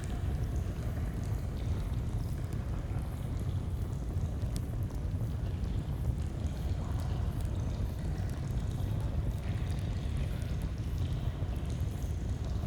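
Steady rush of flowing stream water, low and even, with scattered small crackles and pops of a campfire over it.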